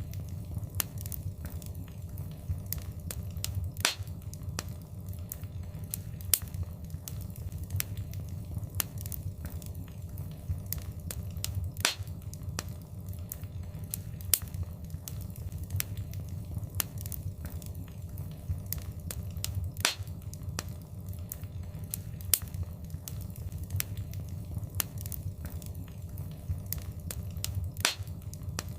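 Wood fire crackling: a steady run of small sharp crackles with a few louder pops every several seconds, over a steady low rumble.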